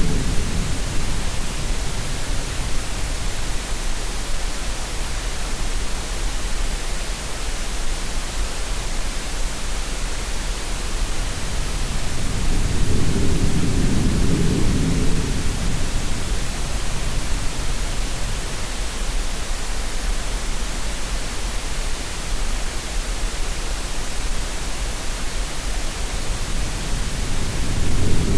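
Steady green noise, an even hiss, with slow swells of sea waves rising and falling low beneath it about halfway through and again near the end.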